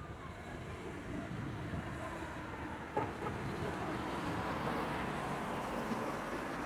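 Steady rumble of distant traffic that swells slightly partway through, with a single sharp click about three seconds in.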